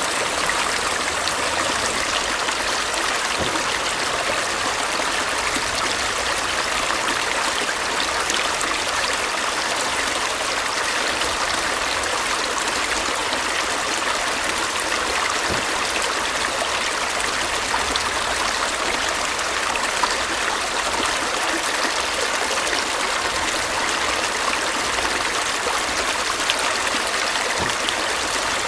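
Stream of water flowing and trickling steadily.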